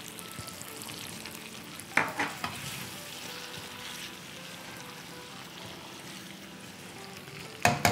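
Chicken pieces and green chillies sizzling as they shallow-fry in oil in a nonstick wok, stirred with a plastic slotted spatula. There are short, louder stirring strokes about two seconds in and again near the end.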